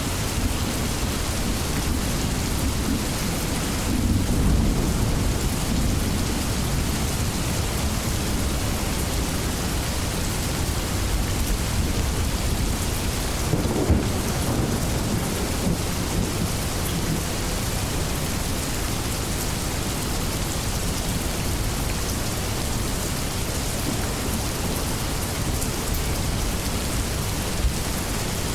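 Steady heavy rain falling, with low rolling rumbles of distant thunder, strongest about four seconds in.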